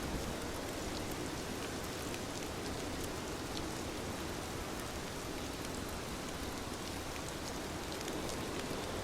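Heavy rain falling steadily: a dense, even hiss with many small, sharp drop ticks scattered through it.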